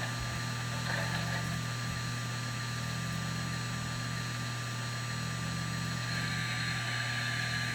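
Steady low electrical hum with a faint hiss from the Proto-Sound 3.0 speaker of a model MTH RailKing B6 steam switcher, idling between the crew radio lines of its shutdown sequence.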